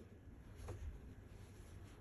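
Faint handling noise: a couple of light taps and a soft rustle, with no machine running.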